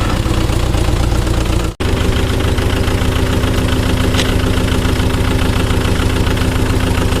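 Tractor engine idling steadily, with a brief break about two seconds in, after which it runs on at a slightly different tone.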